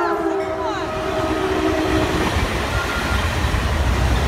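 Caltrain train horn sounding a steady chord that cuts off about two seconds in, followed by the rushing rumble of the train passing.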